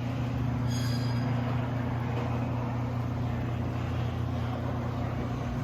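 Overhead Door Legacy chain-drive garage door opener running steadily as it lowers the door: an even motor hum with the chain's rattle beneath it, fairly quiet for a chain drive.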